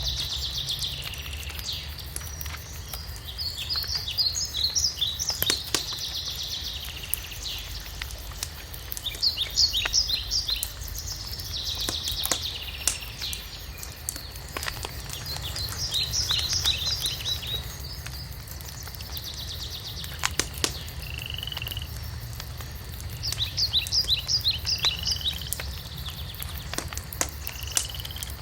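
Songbirds singing rapid trilled phrases every few seconds over a wood fire in a fireplace, which gives occasional sharp crackles and pops and a steady low rumble.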